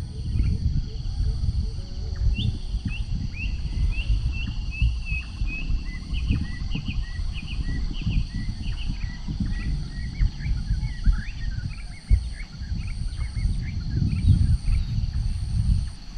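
Gusty wind buffeting the microphone with a low, uneven rumble, while a bird calls in a long series of short chirps and insects drone steadily in the background.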